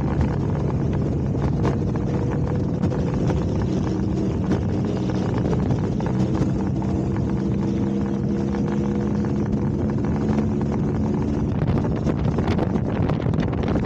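Motorcycle engine running at a steady cruising speed, heard under heavy wind buffeting on the microphone; near the end the engine note fades and mostly wind noise is left.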